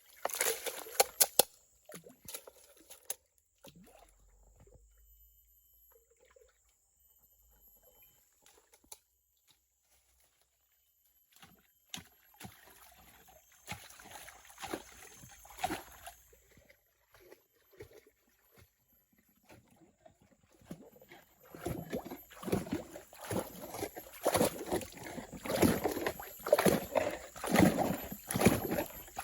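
Water sloshing and splashing in irregular bursts, busiest in the last few seconds, over a steady high insect drone.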